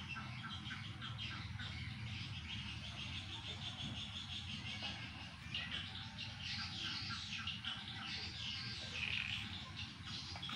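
Small birds chirping and twittering, a busy run of short, repeated calls that grows denser a little past the middle.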